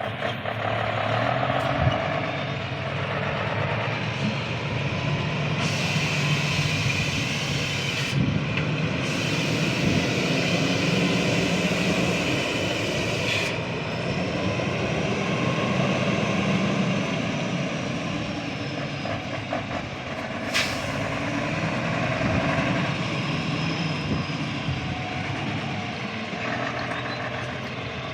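Heavily loaded truck descending a mountain road, its engine and running gear making a steady rumble. There is one sharp click a little past two-thirds of the way through.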